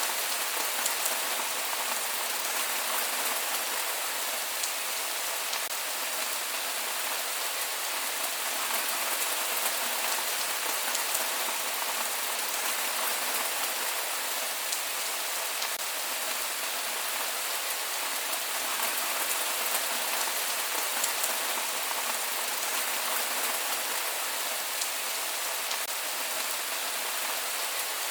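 Steady rain falling without thunder, an even hiss with scattered drop ticks on a surface.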